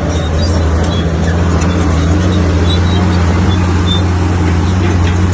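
Bulldozer's diesel engine running steadily under load, getting slightly louder in the first second and then holding.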